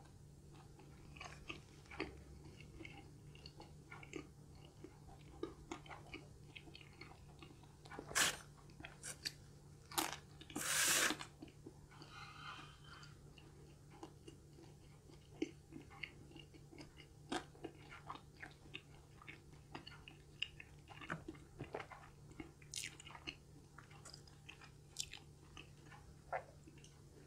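A person chewing pizza close to the microphone: many small, sharp wet mouth clicks over a faint steady hum. A few louder short noises come about eight to eleven seconds in.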